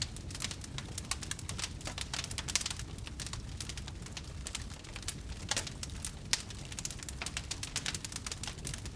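Wood fire burning in a fireplace, crackling with quick irregular snaps and a few louder pops over a low rumble of the flames.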